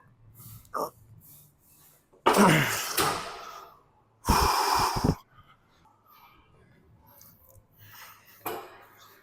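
A person breathing out hard twice, a few seconds apart; the first breath carries a short falling groan.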